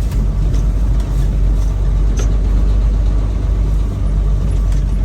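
Semi truck's diesel engine running steadily, heard from inside the cab, a loud continuous low hum with road noise.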